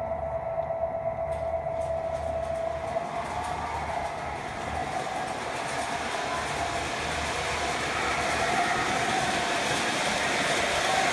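MTH model subway work train running along the track, its wheel and motor noise growing steadily louder.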